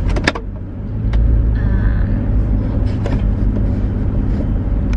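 Car driving, heard from inside the cabin: a steady low rumble of engine and road noise that grows louder about a second in. A few short clicks sound near the start.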